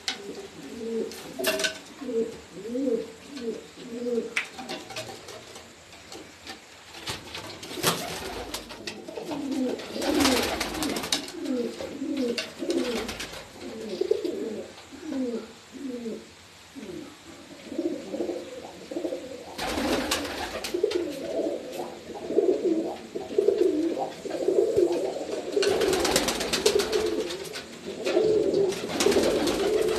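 Several pigeons cooing, their low coos repeating and overlapping, thickening into a near-continuous chorus in the second half, with a few brief noisy bursts among them.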